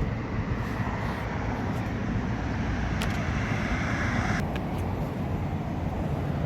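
Steady outdoor rumble and hiss with no clear single source. A higher hiss in it cuts off sharply about four and a half seconds in.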